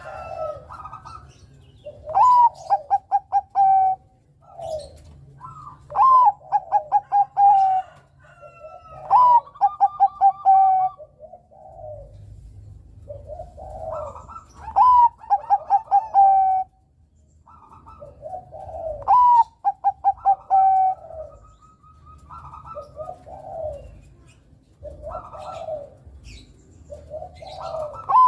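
Zebra doves (Bangkok-strain perkutut) cooing. One loud bird repeats its song phrase six times, roughly every three to five seconds: a rising opening note, then a quick run of short clipped notes. Quieter coos fill the gaps between phrases.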